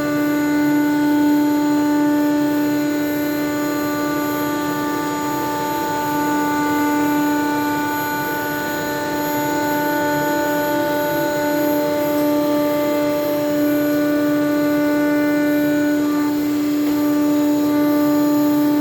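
ShopSabre CNC router spindle running under load as the bit cuts through King StarBoard HDPE sheet on the final pass, a steady whine with a stack of overtones over a constant cutting noise.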